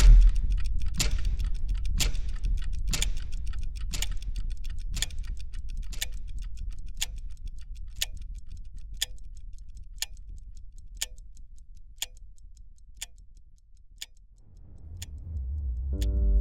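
A clock ticking once a second, the ticks slowly fading, over a low rumble that dies away. Near the end a low swell rises.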